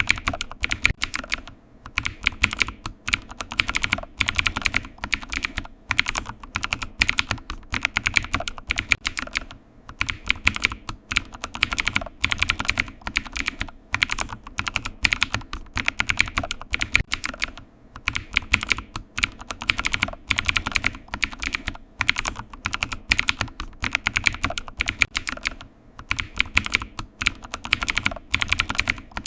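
Computer keyboard typing: quick runs of key clicks, irregular in rhythm, broken by short pauses of under a second.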